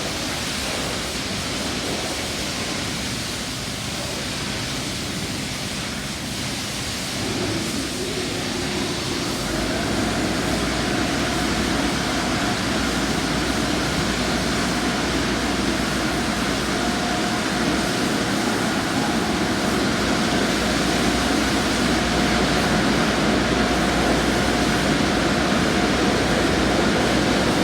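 Car wash equipment running with a steady rush of spraying water. About ten seconds in, a machine comes on, adding a low rumble and a steady hum, and the sound grows slightly louder.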